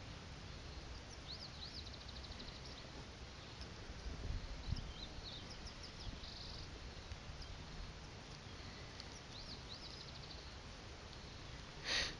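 Birds chirping in the background, short high calls and quick rapid trills scattered throughout, over a faint steady outdoor hum. A low thump comes about four to five seconds in, and a brief rustling hiss just before the end.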